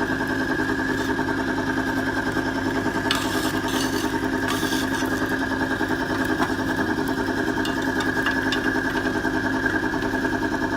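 Timken-type lubricant load tester running with a steady whine over a rapid pulsing hum, its test bearing turning in an oil bath laced with coarse sand and water. A brief rattling noise comes about three to five seconds in.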